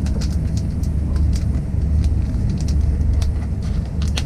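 Steady low rumble of a moving train, with scattered light clicks and ticks.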